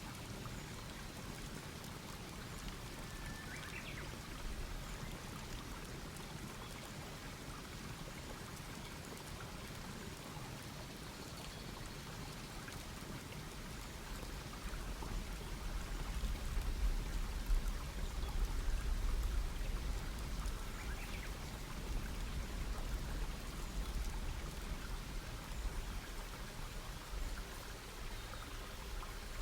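Wood campfire crackling and popping steadily, with a low rumble that swells about halfway through.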